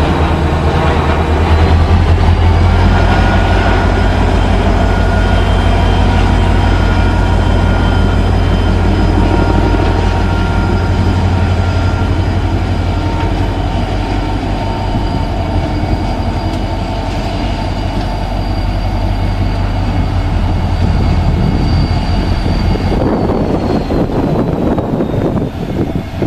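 Diesel locomotive engine running under load, a heavy low drone with a whine over it; the engine note rises about two seconds in, holds steady, and drops near the end.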